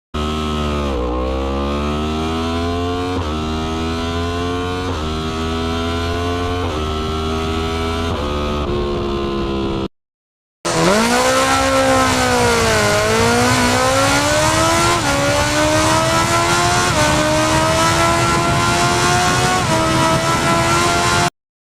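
Superbike engine accelerating up through the gears: the pitch climbs and drops back at each upshift, about five shifts in the first run. After a brief cut to silence, a second run dips in pitch, then climbs through several more upshifts.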